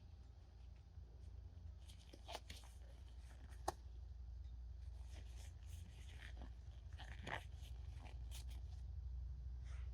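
Scattered rustles and crunches of compost material being handled, with a sharp click a little after three and a half seconds, over a steady low rumble.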